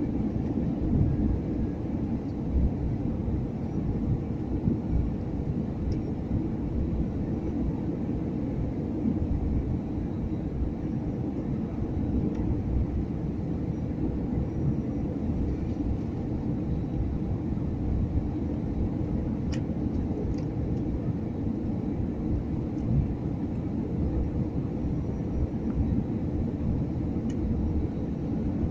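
Airliner landing: a steady, low rumble of engines and rushing air, with one faint click about two-thirds of the way through.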